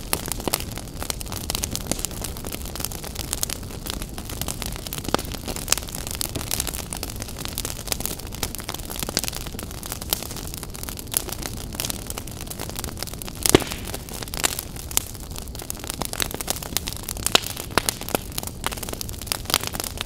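Fire crackling: a steady low rush of burning with frequent sharp pops and snaps, one louder pop a little past the middle.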